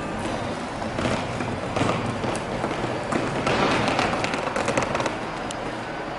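Non-powered push sweeper's brushes scraping over rough asphalt, with grit and debris clicking and rattling as it is swept up.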